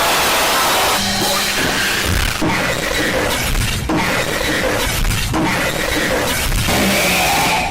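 Music buried under a loud, continuous crashing and shattering noise that fills the whole stretch.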